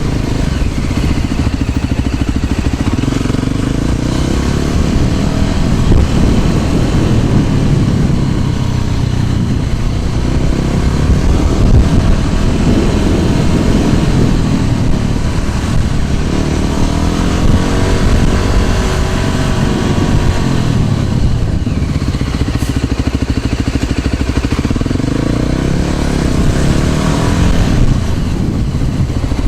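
Motor scooter's engine running under way, its pitch rising and falling several times with the throttle, over heavy wind rush on the microphone.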